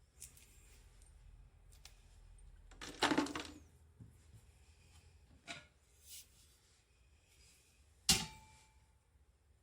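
Intermittent handling sounds of tools: a short scrape about three seconds in, a couple of light knocks, and a sharp clack with a brief ring about eight seconds in.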